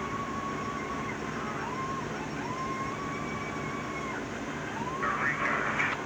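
A siren sounding, its tone gliding up, holding and dropping back in repeated cycles of about a second and a half, over a steady low hum of a vehicle.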